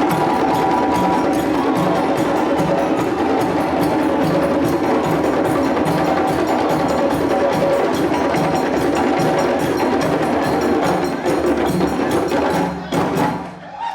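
Percussion music: fast, even strikes with ringing, bell-like tones under them, breaking off near the end.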